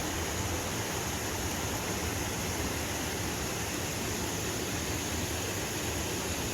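Steady rushing of a mountain stream spilling over a small cascade into a pond, an even noise with no breaks.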